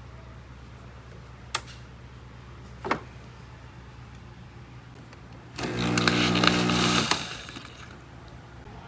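Two sharp clicks, then a small electric kitchen appliance buzzes loudly for about a second and a half and stops, over a steady low hum.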